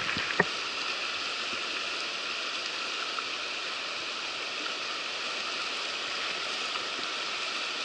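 River water rushing steadily, with one short click just after the start.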